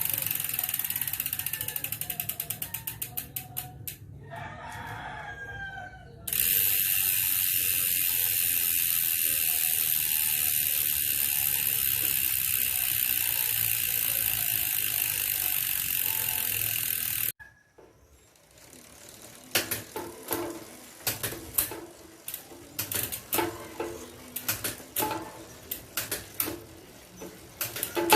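Speedone Soldier bicycle hub's freehub ratchet clicking as the wheel spins freely. A rapid run of clicks slows down over the first few seconds. After a short gap comes a loud, continuous high buzz for about eleven seconds as the wheel spins fast, and it cuts off suddenly. Slower, irregular clicks follow.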